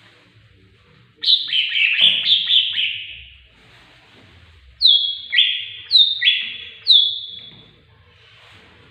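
Tengkek buto bird calling. A quick run of harsh, downward-sliding notes comes about a second in, then a series of separate downward-sliding calls about half a second to a second apart near the middle.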